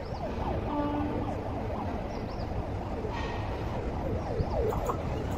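Electric train approaching a station platform: a steady low rumble, with quick rising-and-falling chirping glides over it and a short steady tone about a second in.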